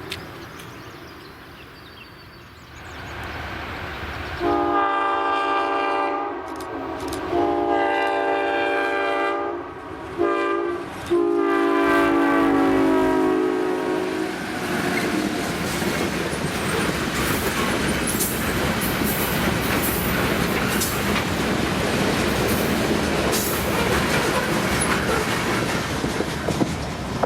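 Six-axle MLW/Alco M636 diesel locomotives approaching with a freight train. The air horn sounds the grade-crossing signal, two long blasts, a short one and a long one. Then the train passes with engine rumble and clattering wheels.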